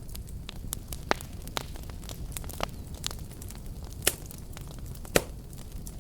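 Fireplace fire crackling: irregular sharp pops and snaps over a steady low rumble of burning, with the loudest pops about a second in, about four seconds in and about five seconds in.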